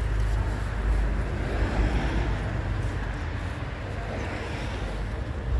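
Roadside traffic noise: a steady low rumble of passing cars, with one vehicle going by in the middle.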